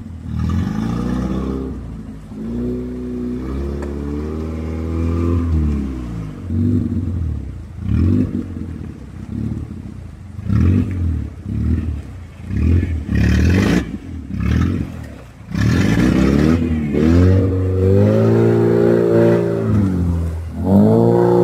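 Opel Frontera 4x4's engine revving in a run of short throttle bursts, then pulling under sustained load as the SUV wades through a shallow creek, with water splashing around the tyres near the end.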